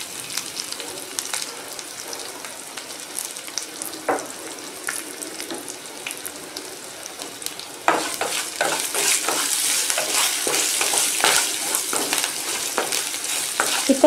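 Shallots, urad dal, mustard seeds and dried red chillies sizzling as they fry in a stainless-steel kadai. From about eight seconds in, a wooden spatula stirs and scrapes the pan, and the sizzle gets louder with many short scrapes.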